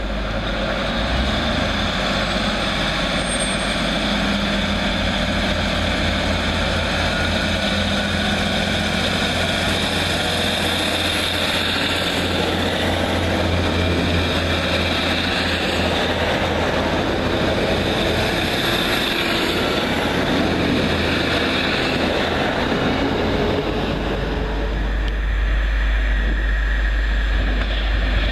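A long multi-coach passenger train running past along the platform, a steady rush of mechanical and rolling noise. About 24 s in, the sound shifts to a heavier low rumble as another train approaches.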